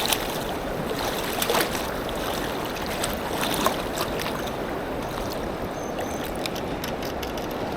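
River water rushing steadily past the bank, with a few faint clicks here and there.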